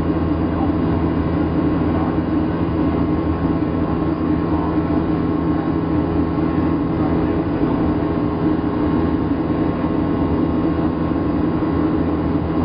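Steady cabin drone of a Boeing 737-700 in flight: the hum of its CFM56 turbofan engines mixed with the rush of air past the fuselage, even and unbroken.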